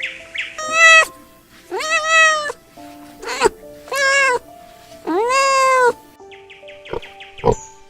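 A cat meowing about five times, the last meow the longest, over background music.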